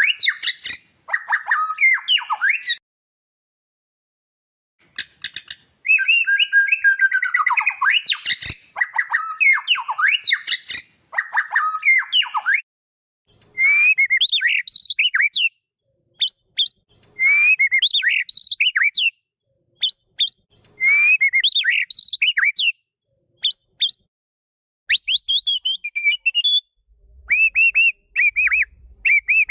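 White-rumped shama (murai batu) song: varied whistled and chattering phrases separated by short pauses, with one phrase repeated three times in the middle and a run of quick, high, repeated notes near the end.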